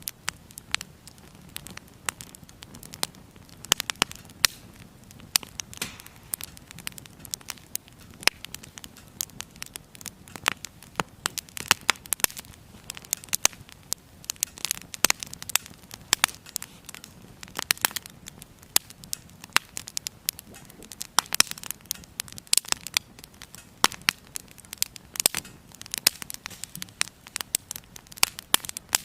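Firewood burning in a small Firebox mini wood stove, crackling with frequent sharp, irregular pops over a soft steady hiss.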